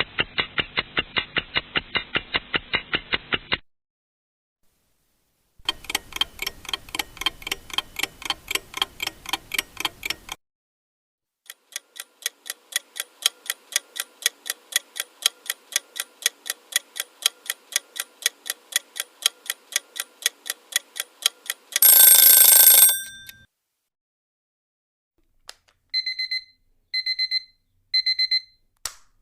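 Several separate clips of clock ticking, each a few seconds of fast, even ticks. About 22 s in comes a loud alarm-clock ring lasting about a second, and near the end three short bursts of high electronic alarm beeps.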